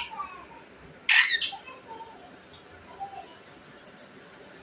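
Caged pet parrot calling: one short harsh squawk about a second in, then two quick high chirps near the end, with faint soft chatter between.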